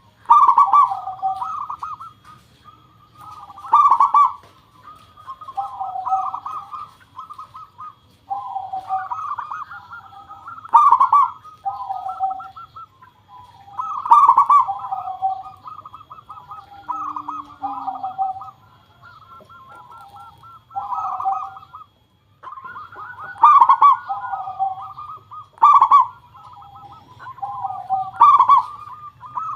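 Zebra doves (perkutut) singing: repeated bubbling, trilled cooing phrases that overlap one another, with a loud, sharp note opening many of them every two seconds or so.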